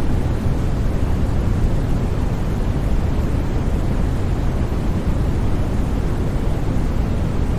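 Steady generated white noise for sleep: an even, unbroken rush, deepest and strongest in the low end, with no change.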